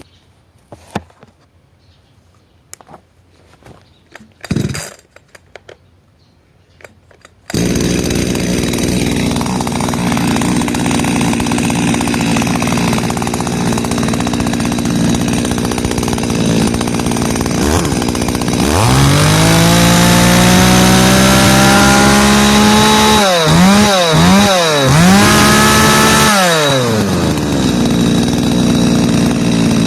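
Kyoritsu CSV381 two-stroke chainsaw engine starting. After some clicks and a short thud it catches suddenly about seven seconds in and idles. It is then revved up and held high, blipped several times, dropped back to idle, and revved once more near the end.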